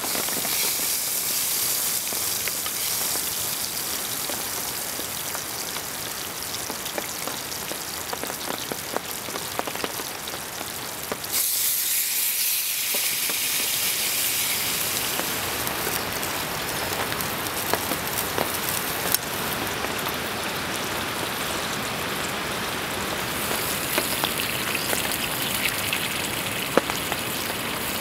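Steady hiss of heavy rain mixed with butter and then chunks of meat sizzling in a small camping pan over a wood fire. The hiss changes abruptly about 11 seconds in, and a few sharp clicks come through in the second half.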